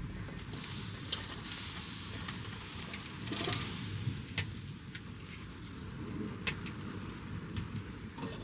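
Heavy thunderstorm rain falling, a steady hiss with sharp drops striking close by now and then, the loudest a little past halfway.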